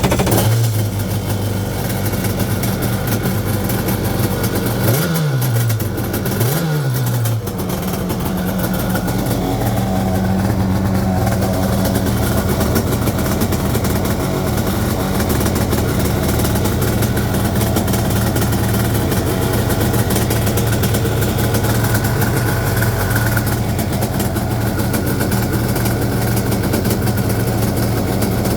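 Krash Foot Rocket Pro stand-up jet ski engine on its first start: it fires and runs. The pitch swings twice, about five and six and a half seconds in, like short throttle blips, then the engine settles into a steady idle.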